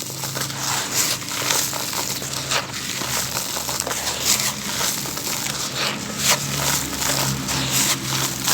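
Dry, grainy sand-cement chunks being crushed and crumbled: a dense, continuous run of crunches and crackles.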